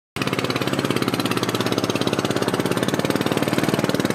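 Boat engine running steadily with a rapid, even chugging pulse, cutting in abruptly a moment in.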